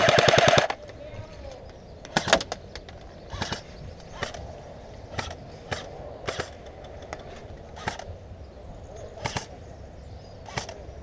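Airsoft gun firing a rapid full-auto burst of rapid clicks that stops about half a second in. Then single sharp shots follow at irregular gaps of about a second.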